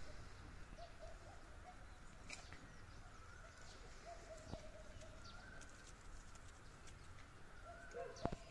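Faint bird calls: thin, wavering whistled notes that come and go, with a few soft clicks.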